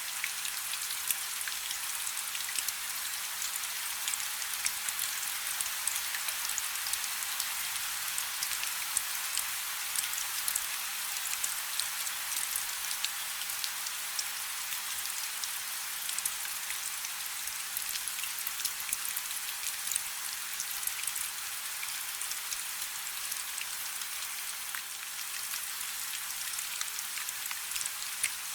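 Steady rain falling on a river: a dense, even hiss of drops hitting the water, with many small sharp ticks scattered through it.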